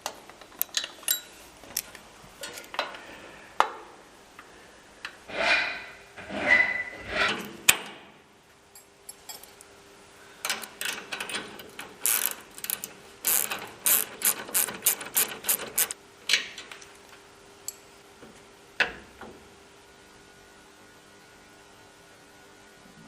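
Hand ratchet clicking as nuts and bolts are tightened, in quick runs of strokes with scattered metal clicks and taps.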